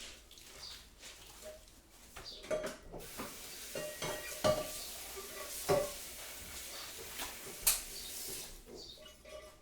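Kitchen work with cutlery clinking against crockery a few times, over a steady hiss that starts about three seconds in and stops near the end.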